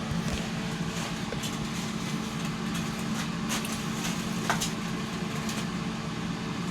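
Steady low mechanical hum, such as a fan or air-conditioning unit makes, with a few light clicks and knocks scattered through it.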